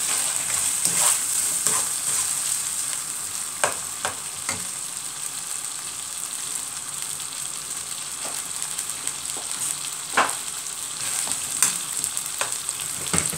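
Chopped onion and shallots sizzling as they fry in butter in a pan, with a steady hiss. Now and then a utensil stirring them clicks against the pan.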